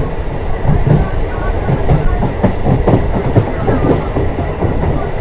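Passenger train running at speed, its wheels rumbling and clattering irregularly over the track, heard from the open doorway of the coach.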